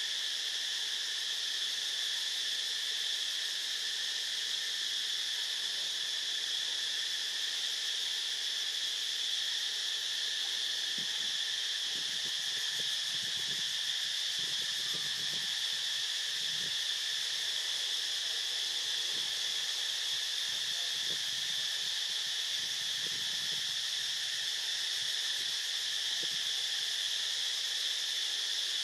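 Steady chorus of insects, a continuous high-pitched buzzing trill that does not let up, with faint low rustles in the middle.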